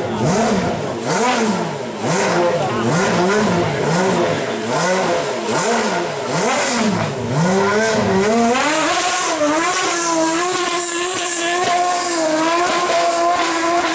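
Aston Martin Vulcan's 7.0-litre V12 being revved hard about ten times in a row, each blip a quick rise and fall in pitch. After about eight seconds it is held at high, wavering revs as the rear tyres spin in a smoky burnout.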